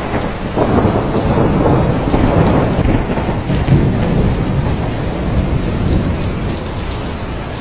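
Steady heavy rain with a roll of thunder that swells about half a second in and rumbles on for several seconds before easing.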